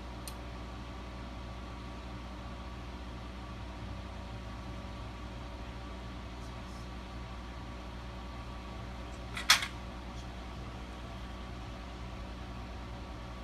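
Steady mechanical hum, with one sharp click about two-thirds of the way through and a few faint ticks.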